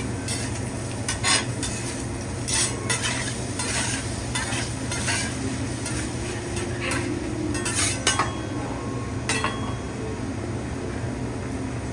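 Food sizzling on a hibachi teppan griddle as metal spatulas scrape across the steel and clack against it in repeated sharp clinks, over a steady low hum.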